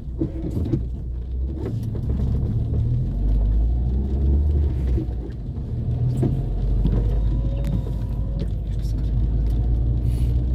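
Car driving on city streets: a steady low rumble of engine and road, with scattered light clicks and knocks.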